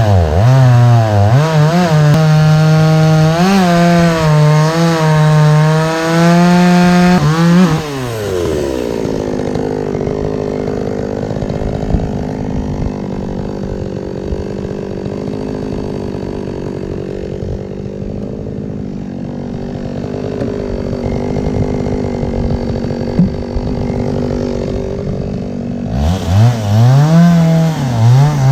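Chainsaw cutting logs at full throttle, its pitch dipping as it bogs under load. About seven seconds in it drops back to a quieter idle for a long stretch, then revs up again near the end.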